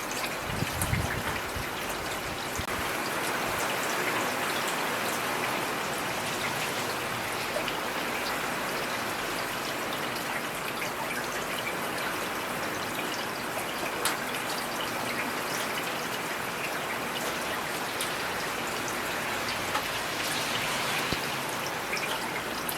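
Heavy rain falling steadily, a dense even hiss sprinkled with sharp individual drop hits, with a brief low thud about a second in.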